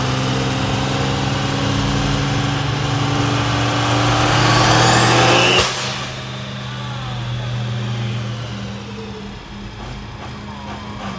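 Diesel truck engine at full throttle, climbing in pitch with a rising turbo whistle, then letting off abruptly about five and a half seconds in and settling to a lower steady run.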